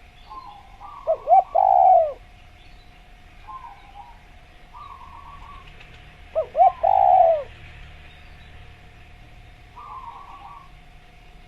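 Spotted dove cooing: two loud phrases about five seconds apart, each two short notes followed by a longer falling coo, with fainter calls between them and a steady faint hum underneath.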